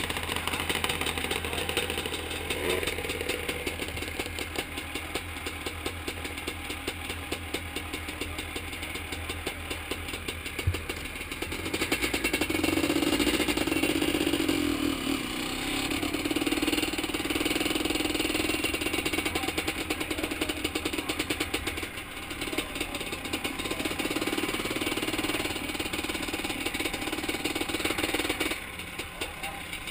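Motocross motorcycle engine running, with revs rising and falling. It gets louder about twelve seconds in and drops back near the end, and there is a single sharp knock a little before it gets louder.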